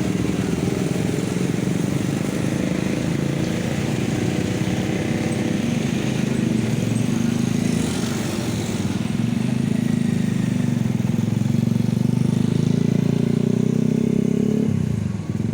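Heavy road vehicle engine running steadily with a low, even hum, which drops away suddenly near the end.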